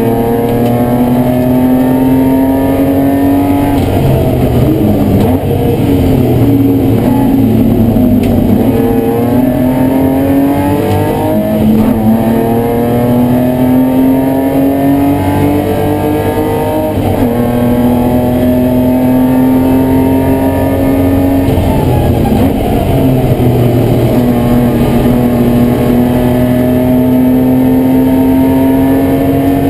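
BMW E30 race car engine at full throttle, heard from inside the stripped cabin. The pitch climbs slowly through each gear, then drops sharply at several gear changes.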